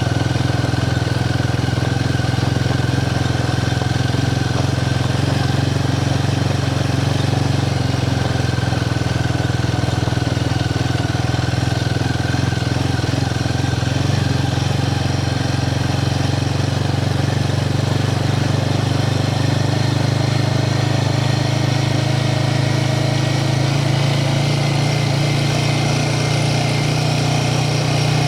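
Royal Enfield Himalayan 450's single-cylinder engine running steadily at an unchanging pitch.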